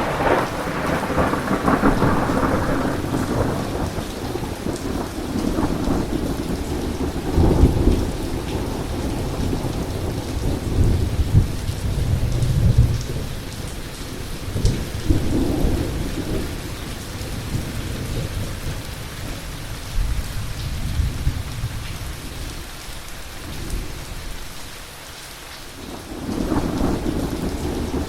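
Thunderstorm: steady heavy rain with rolling thunder. A loud clap at the start rumbles away over a few seconds, further rumbles swell and fade through the middle, and a new peal builds near the end.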